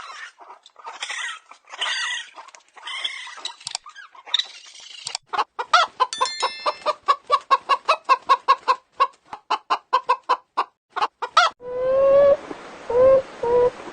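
Chickens clucking, ending in a fast run of short clucks, several a second. Near the end a different pitched animal call takes over.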